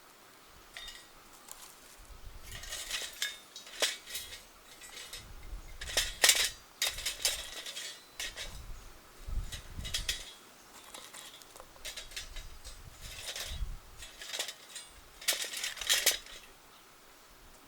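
Light metal clinking and scraping in short irregular bouts, with soft knocks, as small metal parts are handled.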